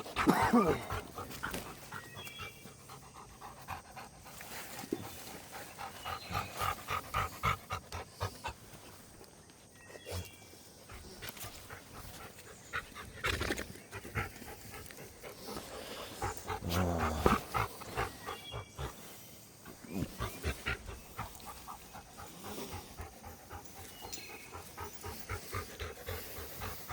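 Dog panting in quick, even breaths, in runs that come and go, with a few short bird chirps now and then and a brief falling whine right at the start.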